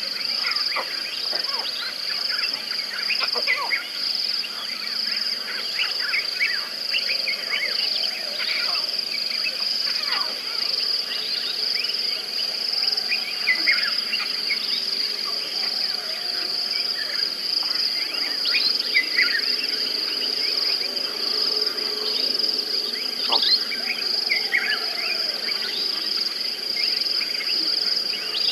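A steady, high-pitched chorus of insects, crickets among them, with many short bird chirps scattered through it.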